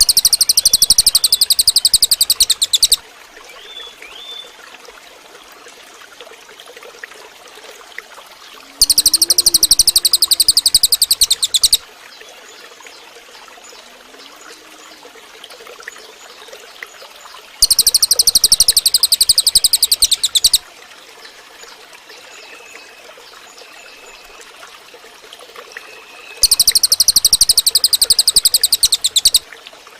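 Cililin bird singing: four loud, very high, rapid trills of about three seconds each, repeating roughly every nine seconds, over the steady sound of running stream water, with faint short chirps between the trills.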